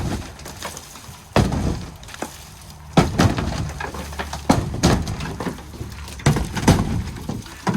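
Repeated hammer blows knocking apart an old shed's panels, about seven strikes roughly a second apart, each followed by rattling and crashing of the loosened pieces.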